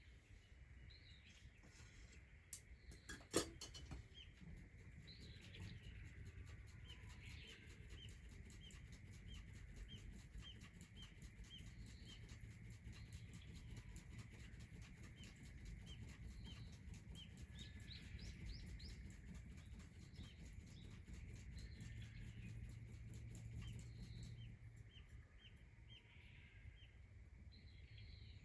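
Faint outdoor ambience: a steady run of short, high chirps at about two a second over a low rumble, with a sharp click a few seconds in.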